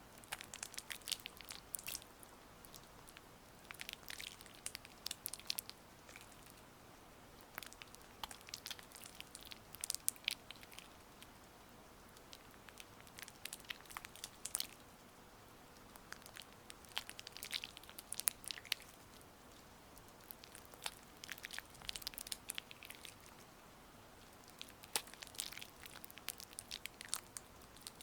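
Gua sha massage with oil close to the microphone: wet, sticky crackling clicks come in strokes a second or two long, one every few seconds.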